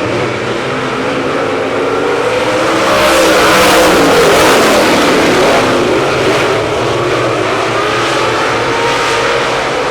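Dirt late model race cars' V8 engines running hard on the track. The engine pitch rises and falls with throttle, and the sound is loudest a few seconds in.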